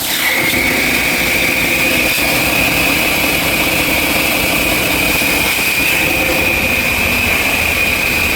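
Mack MP8-445E inline-six diesel engine running at raised speed. The engine revs up at the start, then holds steady with a high whine over the engine note.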